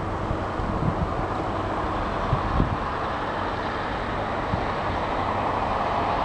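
Intermodal freight train of container and trailer wagons rolling past, with a steady wheel-on-rail noise.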